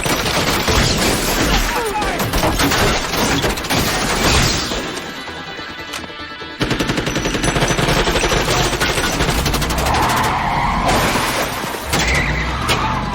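Rapid automatic gunfire in a film action-scene soundtrack, mixed over background music. It eases off briefly near the middle, then resumes abruptly.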